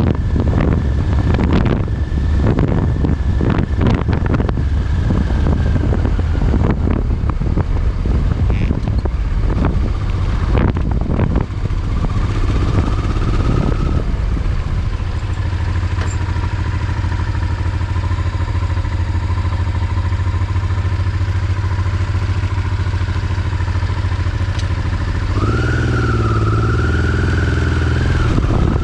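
Motorcycle engine running at a steady road speed while riding, with gusty buffeting noise over it for the first dozen seconds. About 25 seconds in, the engine note rises as the rider accelerates.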